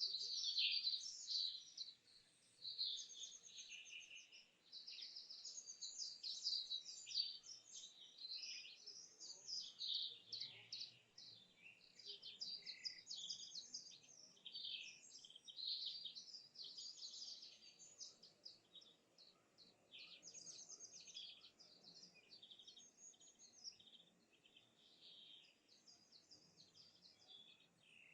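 Several birds singing and calling together, a dense run of quick high chirps and trills that grows fainter toward the end.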